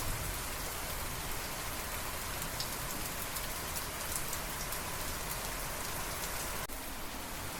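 Steady rain falling, an even hiss with scattered sharper drop ticks on top.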